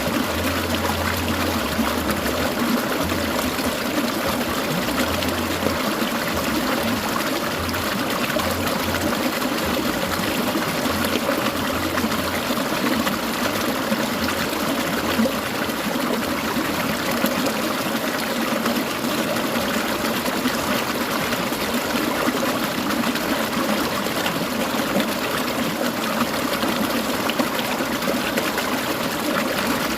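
Clear mountain stream babbling and trickling over rocks, a steady flow.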